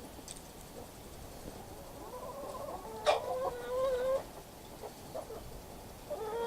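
Chickens clucking while they peck at thrown bread. One long drawn-out call runs through the middle, with a sharp click about three seconds in, and another call starts near the end.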